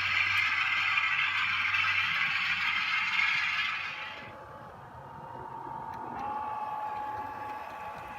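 OO gauge model train running on the track: a steady rush of wheel-on-rail rattle that fades away about four seconds in, leaving a quieter steady whine.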